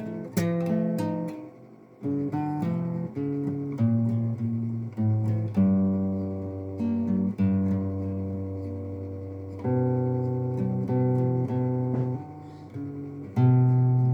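Acoustic guitar playing an instrumental passage of the song, strummed and picked chords, with a brief quieter moment about a second and a half in.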